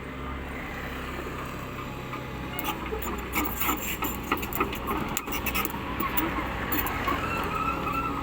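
Caterpillar 307E2 mini excavator's diesel engine running steadily, joined from about two and a half seconds in by a rapid series of clattering knocks and metallic squeals as the machine works.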